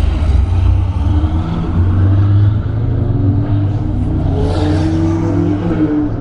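Ferrari sports car engine accelerating hard, its note climbing gently through the second half, with a swell of exhaust and tyre noise about three quarters of the way through as the car goes by.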